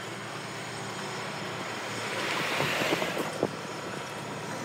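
GBRF Class 66 diesel locomotive, a two-stroke V12, running with a train of empty cement tanker wagons, a steady low rumble. About two seconds in, a brief swell of hissing noise rises and fades, followed by a couple of sharp clicks.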